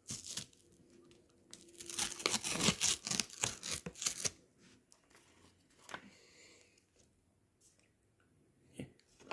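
An ice cream container's packaging being torn open. A short rustle comes first, then a dense run of tearing and crinkling from about one and a half to four and a half seconds in, followed by a few faint handling sounds.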